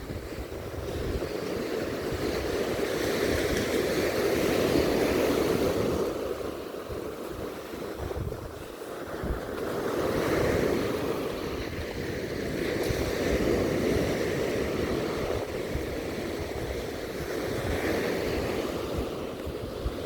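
Sea waves breaking and washing up the beach, the rush swelling and fading every few seconds, with wind buffeting the microphone.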